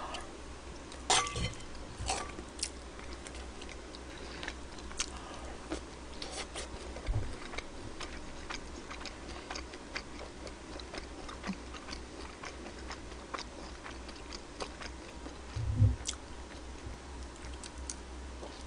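A woman chewing food close to a microphone, with many small wet clicks from her mouth. Two dull thumps stand out, about seven seconds in and near the end.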